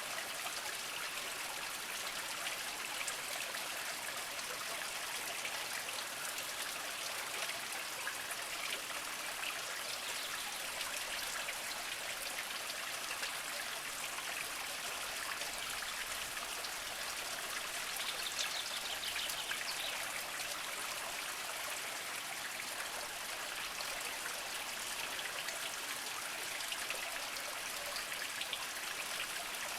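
A small spring trickling and splashing over mossy rocks, a steady flow with fine drips and patters.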